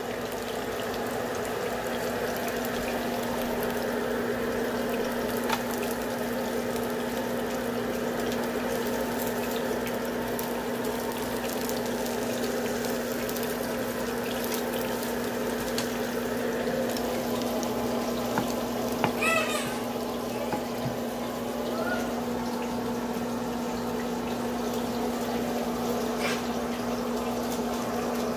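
Eggs frying in a nonstick pan: a steady sizzle over a constant low hum.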